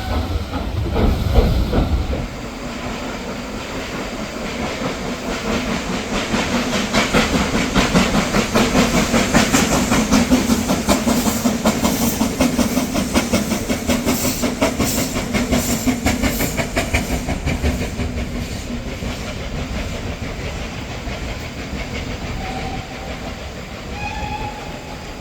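Steam train passing: a heavy rumble at first, then rapid rhythmic beats with hiss that build to a peak and fade away. Near the end there are two short high tones.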